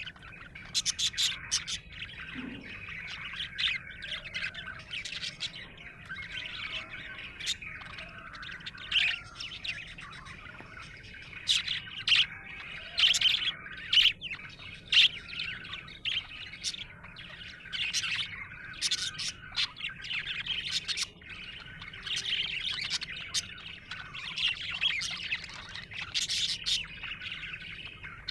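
Budgerigars chirping and warbling without pause, with many short sharp chirps over a steady chattering.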